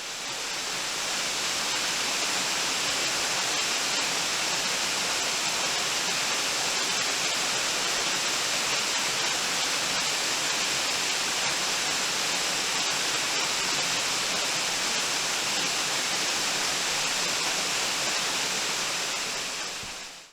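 Waterfall: a steady, even rush of falling water that fades in at the start and fades out at the end.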